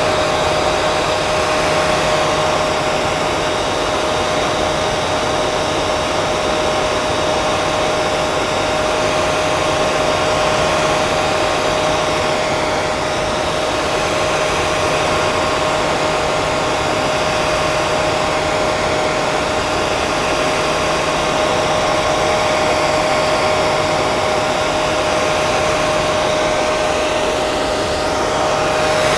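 Hair dryer running continuously: a steady rush of blown air with a constant motor whine, no change in speed.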